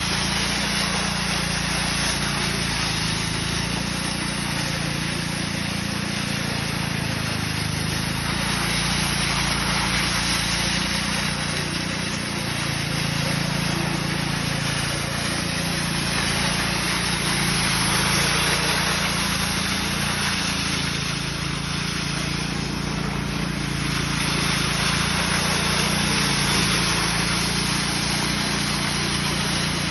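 Engine of road-construction machinery running steadily at a constant speed, with a dense hiss over a low hum.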